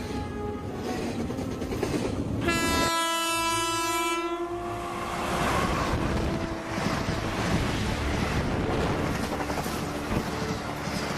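A train horn sounds once, held for about two seconds starting a couple of seconds in, over the steady rumble of a train running on the tracks.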